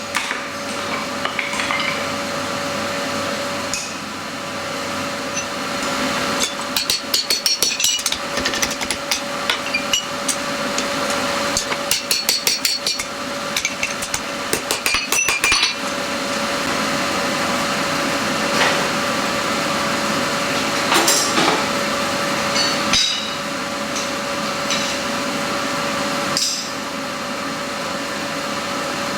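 Hand-hammer blows on steel at an anvil while forging a harrow spike into a blade: two long runs of quick strikes, then a few single blows near the end. A steady hum with one held tone runs underneath.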